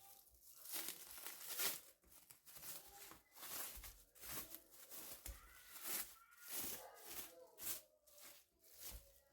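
Soft rustling and crinkling handling noise in irregular bursts, roughly one or two a second.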